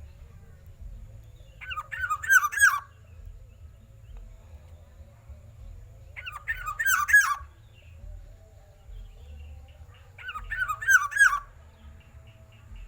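Black-naped oriole calling: three similar phrases of quick, looping notes, each about a second long and about four seconds apart.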